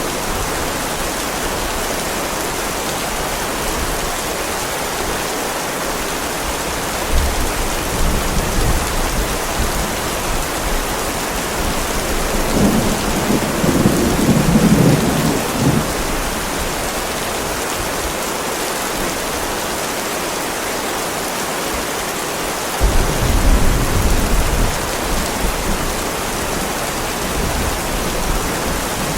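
Heavy rain falling steadily on a driveway, with low rumbles of thunder rolling in three times: about 7 seconds in, around 13 seconds, and again near 23 seconds.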